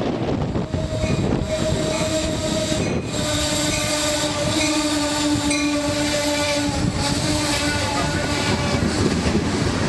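Commuter train passing close by on the adjacent track, its wheels and coaches giving a steady rumble. The horn sounds one steady chord from about a second in, lasting some six seconds.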